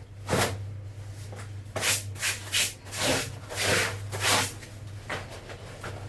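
Laundry being scrubbed and rubbed by hand, in about eight irregular swishing strokes, over a steady low hum.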